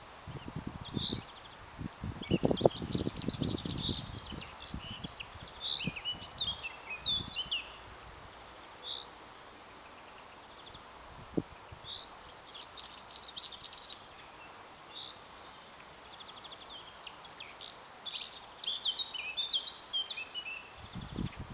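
Small birds squeaking in a tree: two bursts of rapid, very high-pitched squeaks, each about a second and a half long and some ten seconds apart, with scattered short chirps in between.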